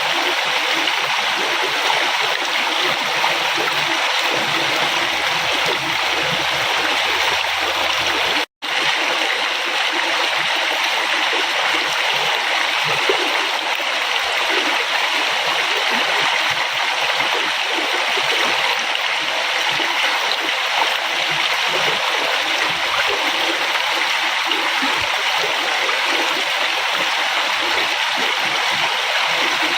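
River water flowing, a steady rushing and gurgling over rocks, with a momentary cut-out about eight and a half seconds in.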